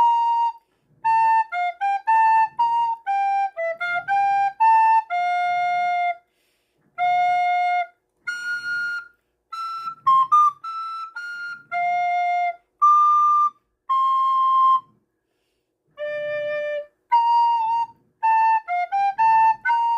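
Recorder played by a child: a simple melody of clear, separate notes in short phrases, with brief pauses between phrases.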